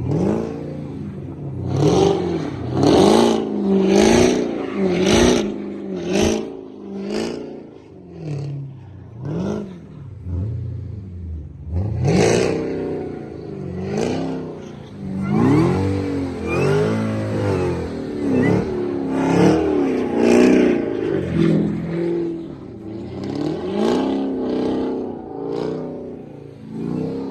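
Camaro ZL1's supercharged V8 revved over and over in short surges, its pitch climbing and dropping about once a second, as the car is pushed to spin and slide on snow.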